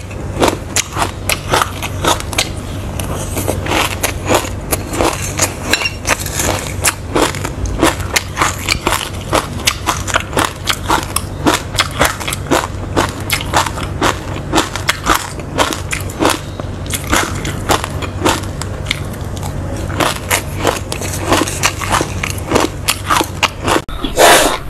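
Close-miked crunchy chewing of a mouthful of roasted sesame seeds mixed with passion fruit pulp: dense, rapid crackling clicks over a steady low hum, with one louder crunch near the end.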